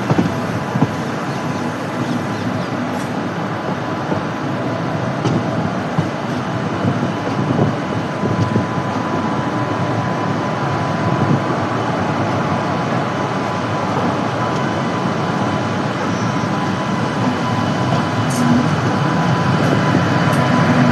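Passenger train running along the track: a steady rumble and rush of wheels on rail, growing a little louder near the end.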